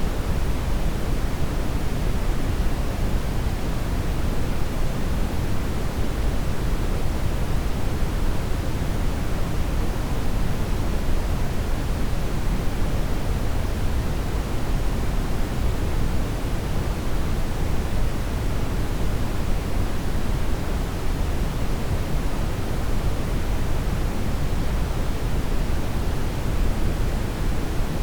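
Brown noise: a steady, even rumbling hiss, strongest in the low end and fading toward the highs, with no change in level.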